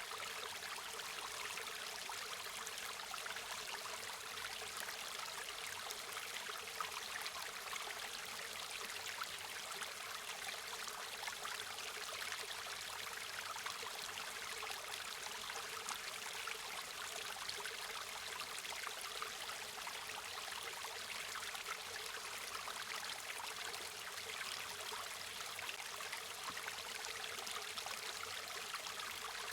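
Small river or stream flowing steadily over stones, a constant rushing with fine splashing and trickling detail.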